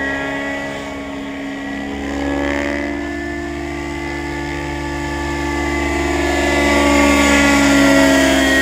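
Engine of an AS90, freshly replaced along with its muffler and nearly through break-in, running steadily without backfire pops. Its pitch wavers slightly and it grows louder near the end.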